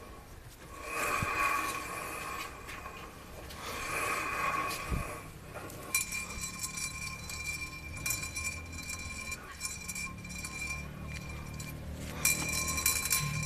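Metallic squeal and clinking from a wheel of a 1992 Fiat Uno, a noise the owner suspects is the wheel bearing. A high ringing tone swells and fades in waves. From about halfway it holds steadier, with rapid metallic ticking over it, and a low hum comes in near the end.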